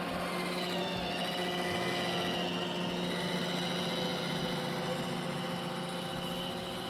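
Roomba i7+ robot vacuum running, a steady motor whir with several held tones.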